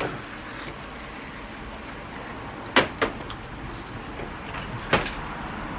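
Steady hiss of heavy rain, with two sharp knocks about two seconds apart, one near the middle and one near the end.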